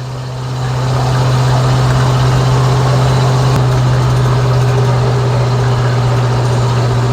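1950 Ford F1 pickup with its flathead V8 running steadily while driving, a constant low engine drone under road noise that builds over the first second and then holds steady.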